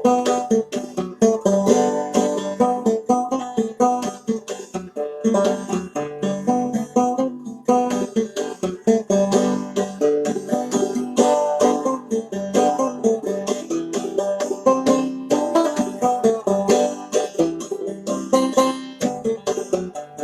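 Banjo played clawhammer style, a fast old-time fiddle tune with rapid plucked notes and a steady rhythmic drive.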